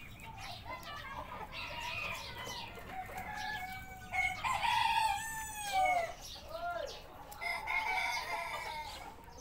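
A flock of Cochin chickens clucking and calling over one another, with a rooster crowing; the calls are loudest about four to six seconds in.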